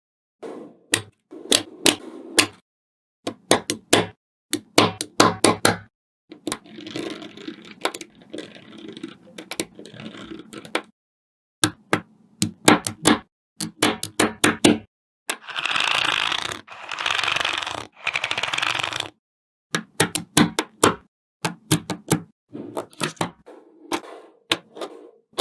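Small magnetic balls clicking sharply together in quick runs as they snap into place, with longer stretches of rattling and scraping as loose balls are shifted and rolled together.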